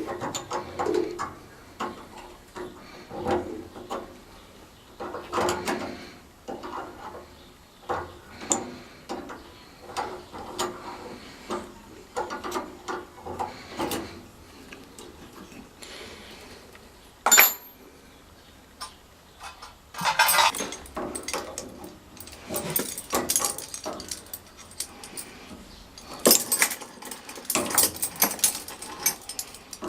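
Socket ratchet and hand tools working the fasteners on a gas water heater's burner access: irregular metallic clinks and clicks, one sharp loud click near the middle, and bursts of rapid clicking about 20 seconds in and again near the end.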